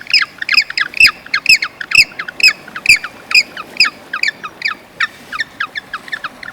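A bird calling in a fast run of short, falling squawks, about four a second, growing fainter after about four seconds.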